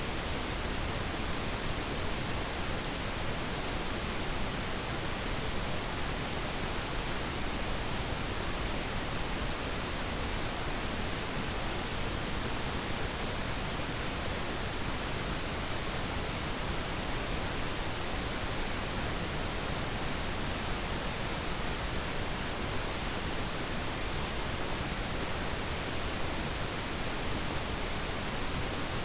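Steady pink noise: an even, unchanging hiss spread across the whole range, used as a study background.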